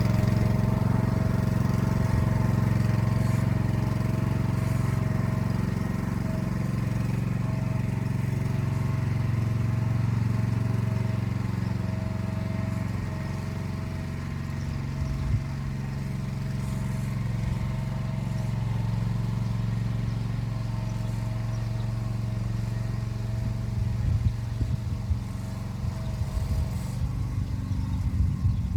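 Single-cylinder engine of a Motor Sich walk-behind tractor running steadily with a constant whine. Near the end there are a few low thumps.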